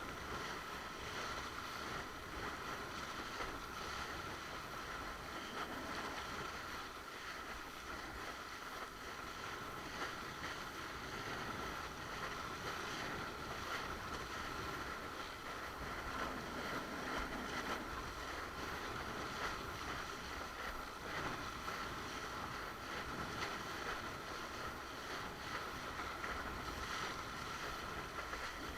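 Steady rush of water along a windsurf board under sail, with wind on the microphone and a steady high-pitched hum running through it.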